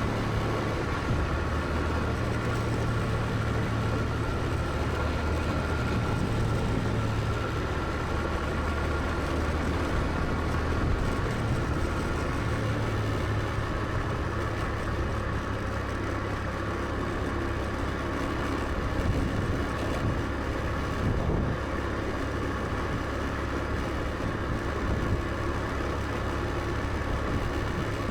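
Motor scooter engine running at a steady cruise, with a continuous low hum and the rush of road and wind noise.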